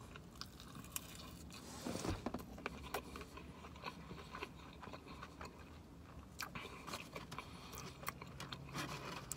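Close-miked mouth sounds of chewing French fries, with scattered small wet clicks and crunches.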